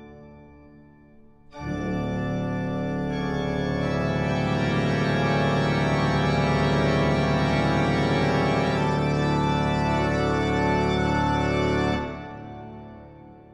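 Background music: a sustained organ chord comes in about a second and a half in, is held, then falls away and fades near the end.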